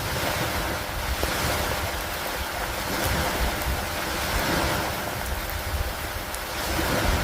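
Steady rain, a dense wash of noise that swells and eases every few seconds, over a low rumble.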